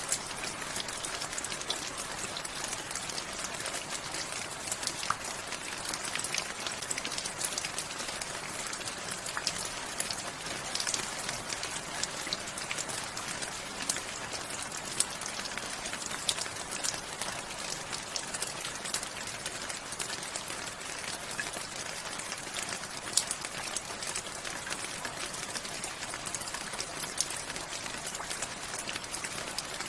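Steady rain falling, with many individual drops landing close by as sharp ticks scattered through an even hiss.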